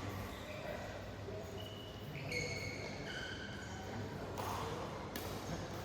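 Shoes squeaking on an indoor badminton court floor as players move, in short high squeaks bunched around the middle, with a single knock about four seconds in.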